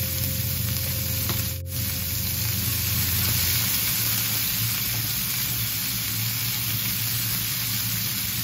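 Sliced bitter gourd sizzling steadily as it is stir-fried in a frying pan.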